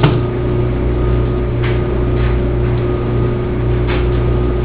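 Steady low mechanical hum with a faint constant whine above it, like an appliance or fan running, and a couple of faint clicks partway through.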